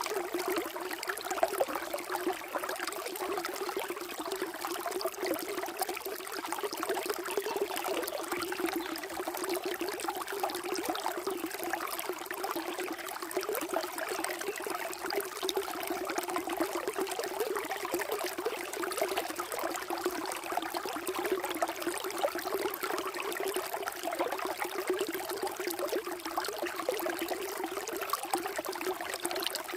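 Flowing water, a steady trickling and burbling stream with no change throughout.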